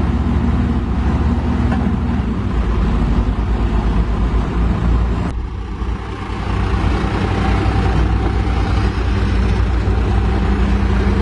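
Heavy diesel engine running loudly and steadily, with an abrupt change in its sound and a brief dip in loudness about five seconds in.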